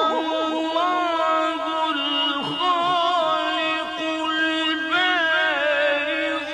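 Middle Eastern–style vocal chanting: a sung melody with bending, ornamented pitch over a steady held drone.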